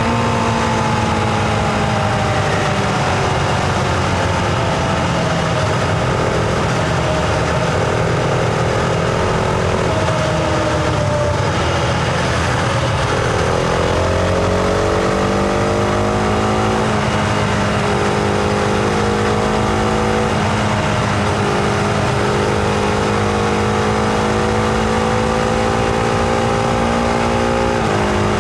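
Husqvarna Vitpilen 701's single-cylinder engine heard on board while riding. The engine note falls over the first few seconds, drops and then climbs again around the middle as the bike accelerates, runs steadily, and drops once more near the end.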